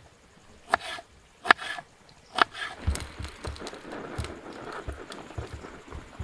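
Three sharp knocks, each with a brief ring, under a second apart. From about three seconds in, a stretch of rustling with soft low thuds.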